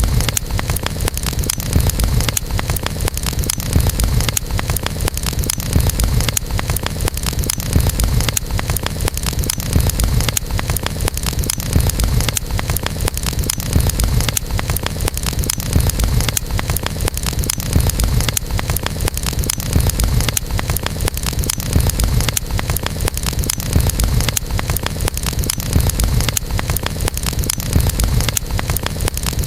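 Campfire burning steadily, with dense small crackles of the burning wood over a low rumble.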